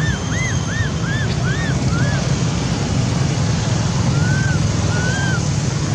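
Baby monkey crying in short arched calls, about six in quick succession in the first two seconds, then two longer, flatter ones later, over a steady low rumble.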